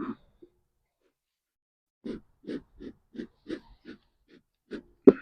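Bee smoker bellows being pumped, about eight short puffs of smoke in quick succession, roughly three a second, then a sharp knock near the end.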